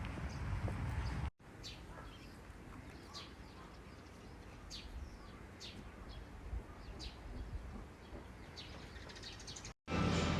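Small wild birds giving short, high chirps at irregular intervals over a faint steady hiss. Before that, a brief stretch of louder low rumbling noise cuts off abruptly a little over a second in.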